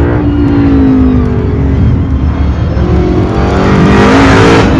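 A car's engine on an autocross course: its pitch falls for the first couple of seconds as it slows, then rises again as it accelerates hard, with a rush of noise near the end.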